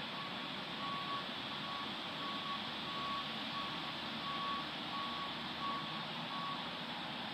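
Wind rushing steadily through trees, with a vehicle's reversing alarm beeping in the background about one and a half times a second, one steady tone, until it stops near the end.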